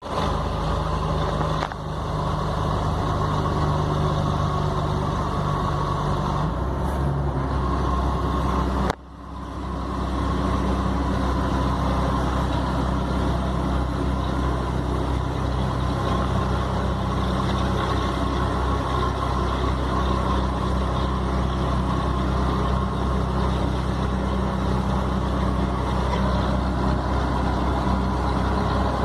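Scania 113 truck's inline-six diesel engine running steadily while driving. About six and a half seconds in, the engine note drops lower, and near nine seconds the sound briefly dips before the steady running returns.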